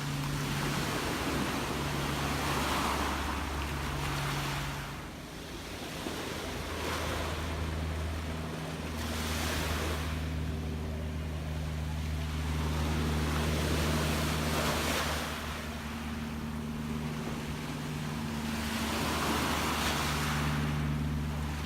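Gentle sea waves breaking and washing in and out, each surge rising and fading every few seconds, with a steady low hum underneath.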